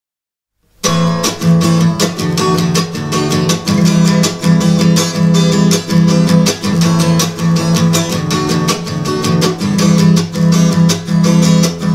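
Acoustic guitar strummed in a steady rhythm, starting about a second in: the instrumental intro of the song, before the vocals come in.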